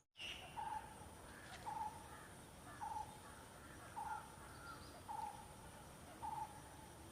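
A bird giving a short, single-pitched note repeated evenly about once a second, six times, over a faint steady high-pitched insect hum.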